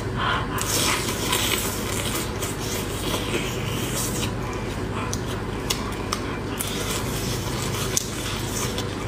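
Close-up eating of a spicy shell-on shrimp: crunching and chewing, with many short, sharp crackles from the shell.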